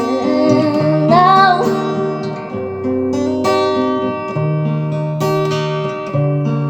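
A woman's singing voice holds the last word of a line with a slight waver, then acoustic guitar chords play on alone.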